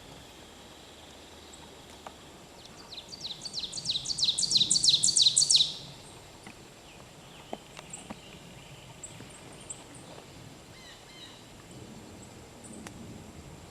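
Ovenbird singing one song of about ten quick repeated phrases that grow steadily louder over about three seconds. Faint high chirps of other birds follow.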